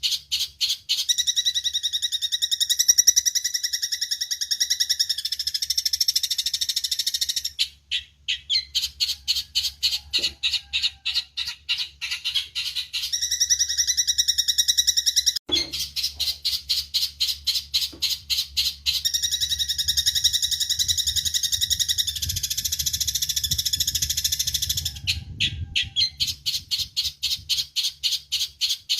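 Eurasian tree sparrows chirping in a fast, unbroken stream of short calls, about five a second, over a steady low hum.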